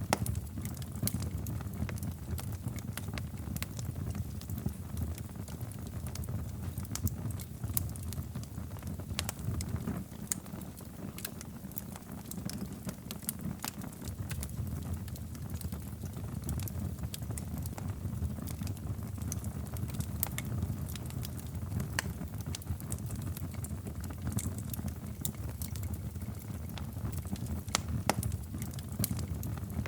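Wood fire crackling in a fireplace: irregular sharp pops and snaps over a steady low rumble of the flames, with a couple of louder pops near the end.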